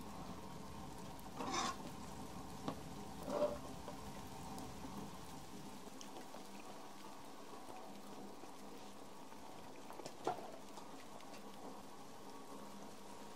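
Food frying in a pan with a low, steady sizzle, with a few light clicks of a utensil against the pan, mostly in the first few seconds and once again near the end.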